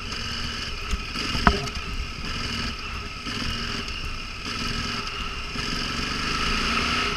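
Motorcycle engine running steadily at low speed on a slow off-road climb, with a sharp knock about one and a half seconds in.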